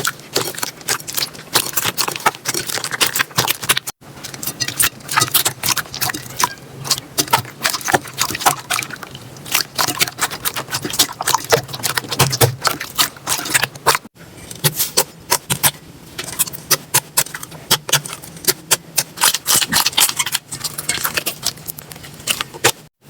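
Slime being squished and poked by hand: dense, irregular crackling and popping clicks, cut off abruptly about 4 and 14 seconds in and starting again.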